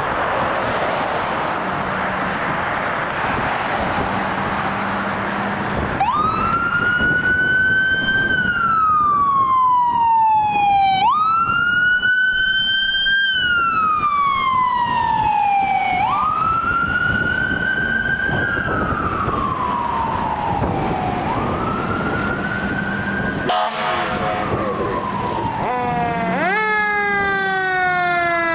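Emergency-vehicle siren on a responding fire apparatus. After about six seconds of passing-traffic noise it starts: four times, about five seconds apart, it jumps quickly up in pitch and slides slowly back down. Near the end a second siren sweeps in over it.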